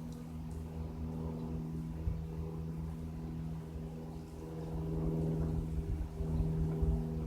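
Cessna light aircraft's engine and propeller droning overhead, a steady hum with a slight swell in loudness past the middle.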